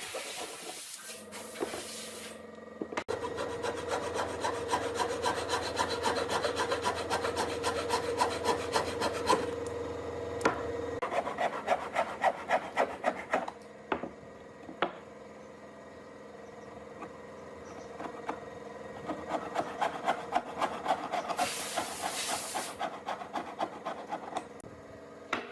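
Wood being worked with an abrasive hand tool, a rasp, file or sandpaper, in rapid repeated back-and-forth strokes. The strokes come in three runs with short pauses between them.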